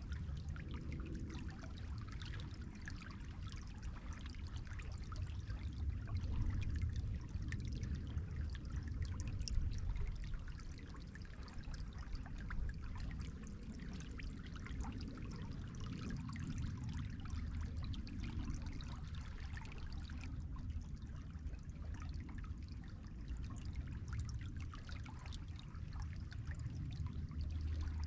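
Pine Barrens river flowing: a steady rush of moving water with fine trickling and small splashes.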